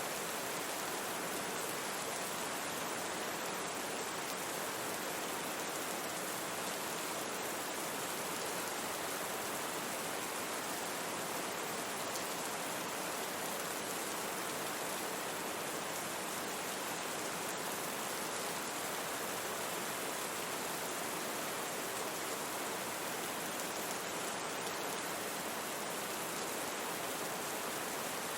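Steady rain mixed with brown noise, an even, unbroken hiss with no single drops or other events standing out.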